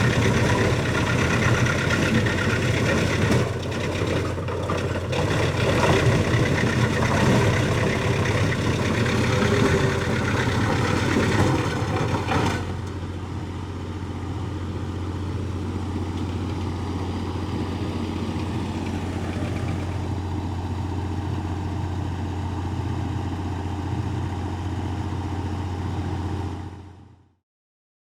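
Tractor-driven disc wood chipper (REMET RT-630R) running with a steady low engine hum. For about the first twelve seconds there is busy, clattering noise over it; after that it runs more evenly and quietly, then fades out near the end.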